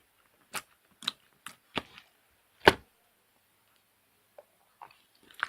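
Pink slime being pressed and squished by hand, giving sharp clicking pops, about five in the first three seconds with the loudest near the middle, then a few faint ticks.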